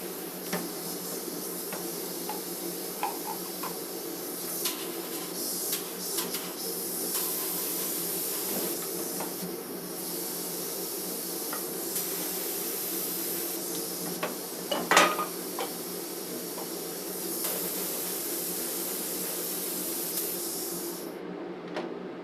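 Varnish being sprayed onto alternator parts: a steady spray hiss over a steady hum, cutting off near the end. Small metal clicks of the parts being handled, with one louder ringing metallic clink about two-thirds of the way in.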